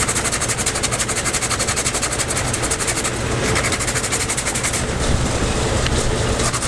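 Electric belt sander running steadily as the outside of a small wooden bowl is sanded on it, with a fast, even pulsing throughout.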